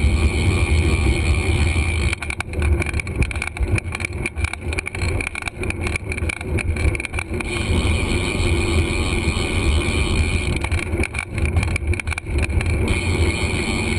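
Steady low rumble of wind and road noise picked up by a GoPro on a moving bicycle, choppier and uneven for a few seconds in the middle and again near the end.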